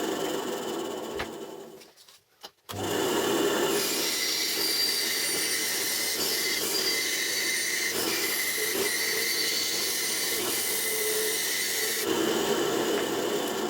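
Homemade band saw running and cutting, a steady sawing noise with a faint high whine. The sound drops out briefly about two seconds in, then resumes.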